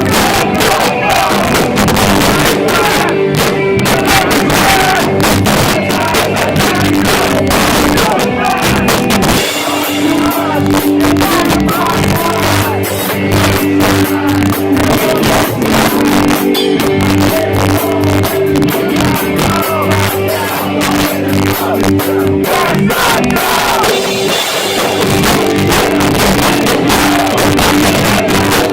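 Live hardcore band playing: loud distorted guitars, pounding drums and shouted vocals, with the crowd shouting along. The song's riff changes about ten seconds in. The recording is a cheap phone's, heavily distorted.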